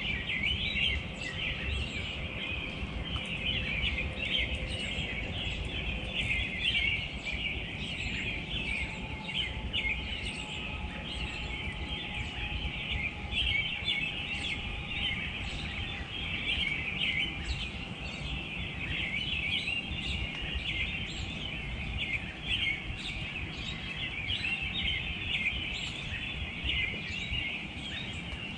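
Many small birds chirping and twittering continuously, a dense overlapping chatter of short high chirps, over a steady low outdoor rumble.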